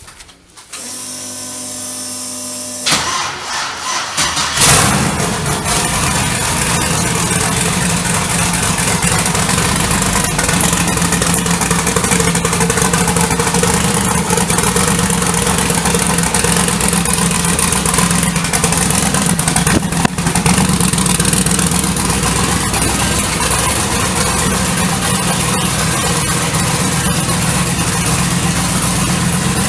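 Chevy 5.3-litre V8 in a drag truck, cranked by the starter for a couple of seconds, catching about three seconds in with a loud flare, then idling steadily.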